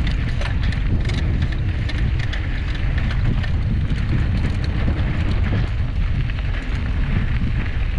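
Wind buffeting the microphone of a camera carried on a moving bicycle: a steady low rumble, with scattered small clicks and rattles throughout.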